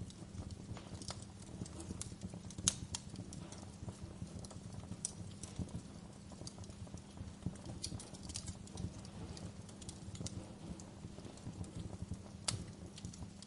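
Fire burning with a steady low rumble and scattered crackles and pops, the sharpest about three seconds in and near the end.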